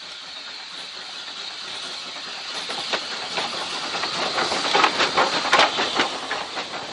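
Steam-hauled train departing and passing: a steady steam hiss that grows louder, then wheels clicking and knocking over the rail joints, thickest about five seconds in.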